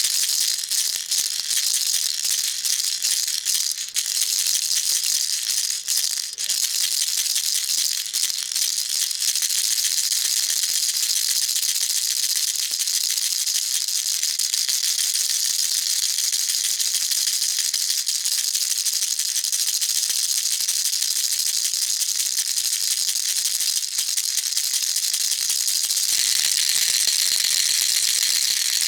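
Baby rattle shaken continuously: uneven, separate shakes for the first several seconds, then settling into a steady, even rattle.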